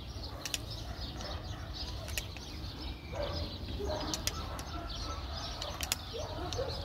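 Birds calling in the background: short curved calls from about halfway through and a few sharp chirps, over a steady low rumble.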